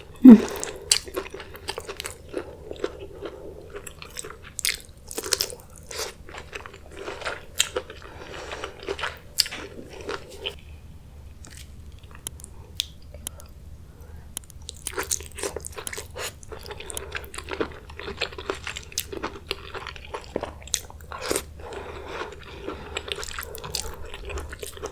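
Close-miked eating of seafood: irregular biting, crunching and chewing with sharp wet clicks, the loudest a snap just after the start.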